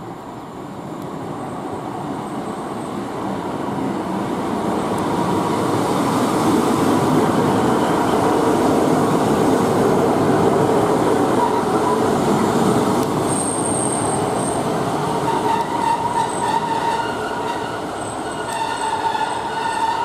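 Diesel multiple-unit passenger trains at a station platform: rumble from engines and wheels swells over the first several seconds and then holds. In the second half, high steady squeals from wheels and brakes set in as a Class 150 Sprinter pulls in.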